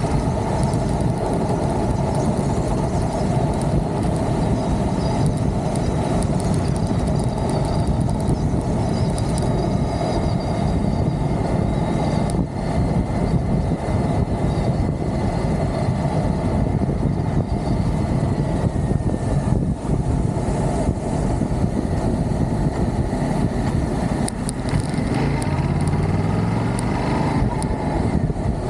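Motorcycle riding along: a steady engine note mixed with heavy wind and road noise, with a short rising engine note near the end.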